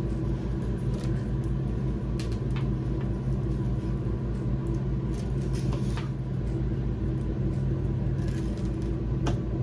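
Steady low machine hum with an even, rapid pulsing underneath, with a few faint clicks and rustles of handling over it.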